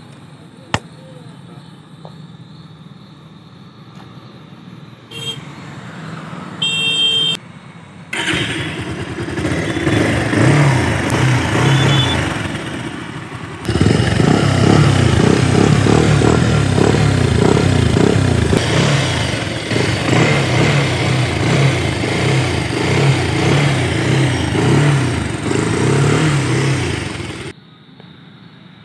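Motorcycle engine and road noise while riding, loud for most of the stretch and cutting off abruptly near the end, with a short horn blast about seven seconds in.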